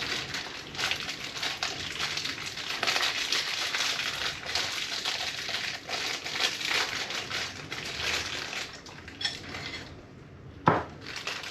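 Crinkling and rustling of the fork seal kit's packaging as the sliding bushes are taken out, an irregular crackle that dies down, then one sharp knock near the end.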